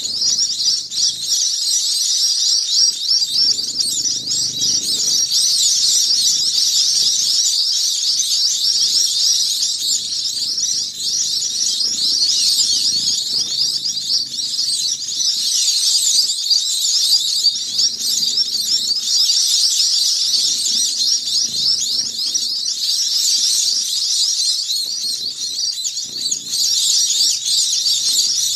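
Munia (emprit) chicks giving a steady stream of overlapping high-pitched begging calls, the way nestlings beg while being hand-fed.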